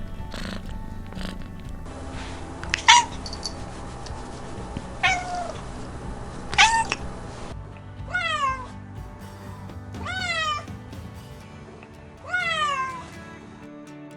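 Domestic cat meowing: about six short meows a second or two apart, each rising then falling in pitch, over background music.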